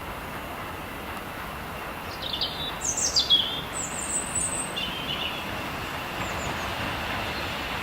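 A small songbird sings a quick run of high chirps and falling trills about two seconds in, lasting around three seconds, over a steady background hiss.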